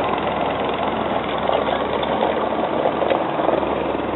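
Slow boat's engine running steadily, a loud, even drone.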